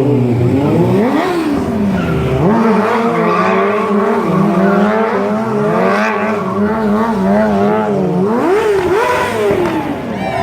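Stunt motorcycle engine revving up and down, held at high revs with a wavering pitch through the middle, then blipped up and down again near the end.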